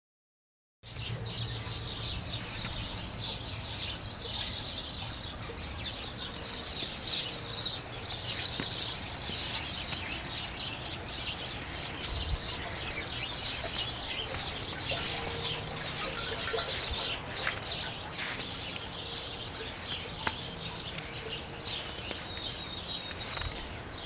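Small birds chirping and chattering continuously, with many short, high calls overlapping.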